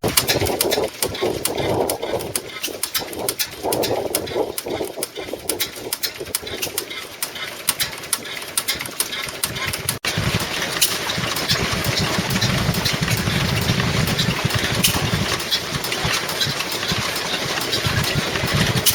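Old stationary engines running, with many sharp ticks over the engine sound. About halfway there is a sudden break, and after it a different engine with a fuller, deeper running note.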